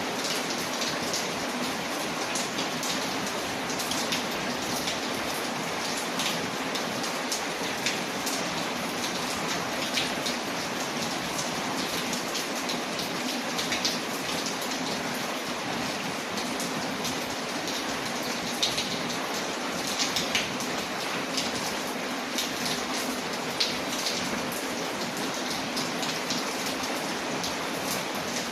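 Steady rain on a window layered with a crackling wood fire, small sharp pops scattered throughout.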